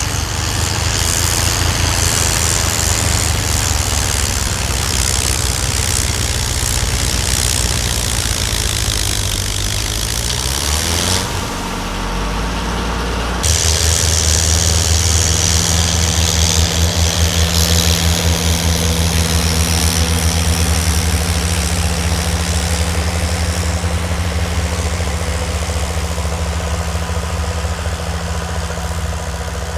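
Snowblower engine running hard with a rushing hiss over it. About ten seconds in, the engine note sags and the sound thins briefly. A couple of seconds later it comes back louder and steady.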